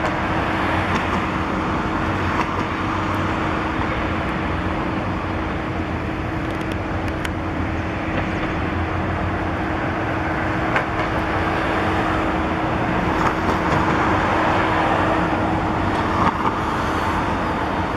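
Steady city traffic noise, with a constant low hum under it.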